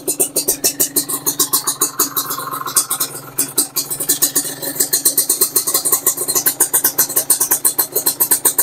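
Kawasaki Ninja RR 150's two-stroke single-cylinder engine idling through an aftermarket expansion chamber and carbon silencer, with a rapid, even pulsing. The pulsing smooths out briefly about two to three seconds in.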